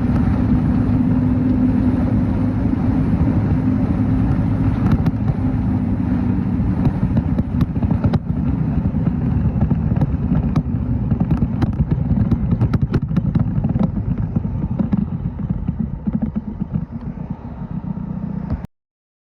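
Motorcycle engine running under way, steady at first and then more uneven, with a scatter of light ticks from about five seconds in. The sound cuts off abruptly near the end.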